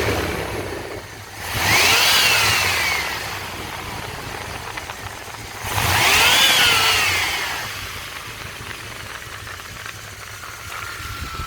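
Chevrolet 5.7 L TBI 350 V8 idling and revved twice, the pitch rising quickly and falling back each time, with a tick from the valve cover area that turned out to be a loose spark plug.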